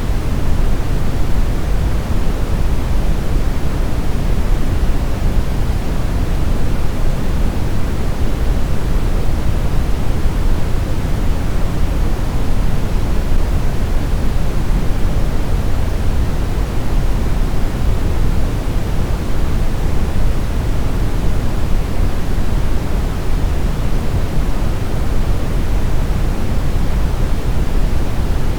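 Steady synthetic brown noise: an even, unbroken rush with its weight in the deep low end, fading off toward the highs, with no changes or events.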